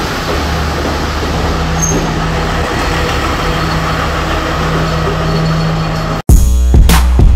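A blue diesel passenger train running past, a steady rumble of wheels on rails with the low hum of its engine. Just over six seconds in it cuts off abruptly and background music with a beat starts.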